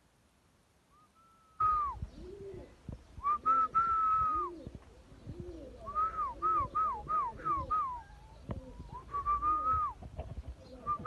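Birds calling: a series of clear whistled notes, each dropping in pitch at its end, including a quick run of about six short ones, with lower cooing calls beneath. It starts suddenly a moment or two in after near silence.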